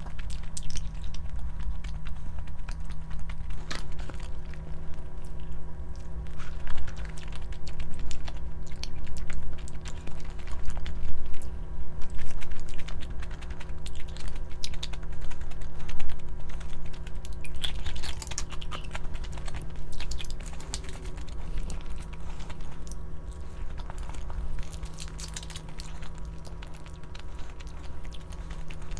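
A person chewing and biting food, with many short wet clicks, over a steady low hum.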